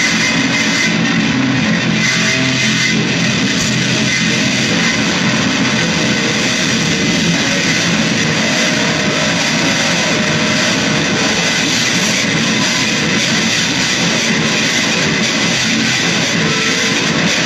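Dense, distorted electric guitar noise, loud and unbroken, with no clear beat.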